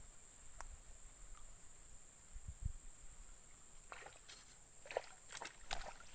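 Quiet outdoor ambience with a steady high-pitched hum, a single light click about half a second in, and a few scattered clicks and knocks near the end.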